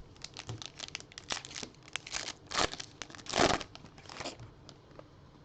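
A trading-card pack wrapper being torn open and crinkled in the hands: a run of short crackles, loudest about three and a half seconds in.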